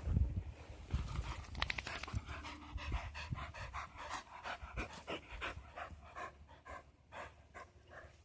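Dog panting rapidly, about four quick breaths a second, starting about a second in after a low rumble.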